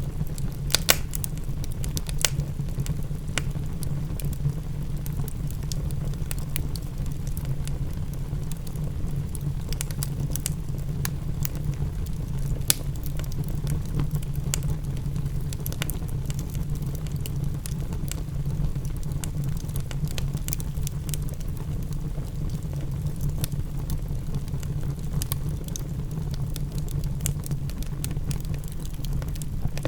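Wood fire crackling, with frequent irregular sharp pops over a steady low rumble, mixed with the patter of rain.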